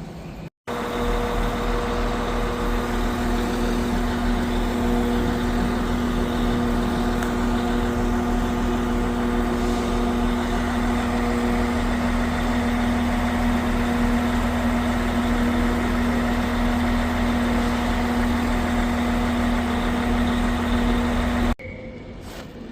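Stationary train idling: a steady engine drone with a constant hum and low rumble. It starts abruptly just after the beginning and cuts off sharply near the end.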